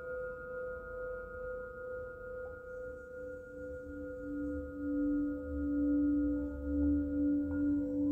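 Singing bowls ringing in long, overlapping sustained tones that waver in loudness. A lower bowl's tone swells in about three seconds in and becomes the loudest part near the end.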